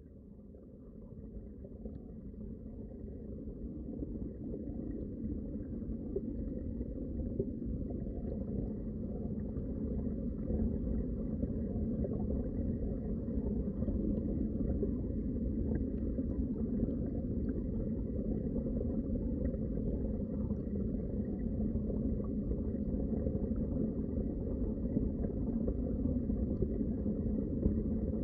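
Underwater ambience: a muffled, low rumble of moving water with faint scattered crackles, fading in over the first few seconds and then holding steady.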